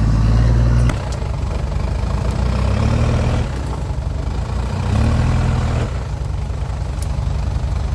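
Off-road 4x4 vehicle's engine running, louder in the first second, then picking up again briefly a couple of times.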